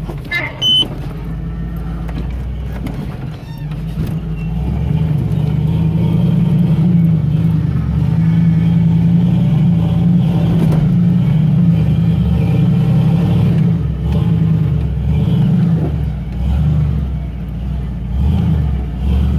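Off-road vehicle's engine running under load while crawling over rocks, getting louder about four seconds in, then rising and falling with the throttle.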